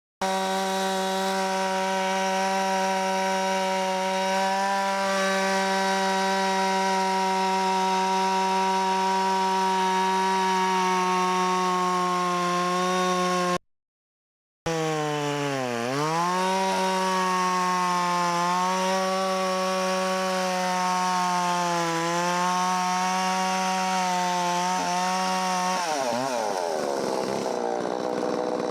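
Holzfforma 660 clone two-stroke chainsaw running at full throttle, cutting through wood, its pitch dipping now and then as the chain loads in the cut. About three seconds before the end the throttle is let off and the engine drops toward idle.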